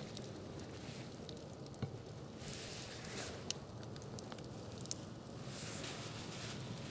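Wood campfire burning, crackling and hissing, with a few sharp pops from the burning wood.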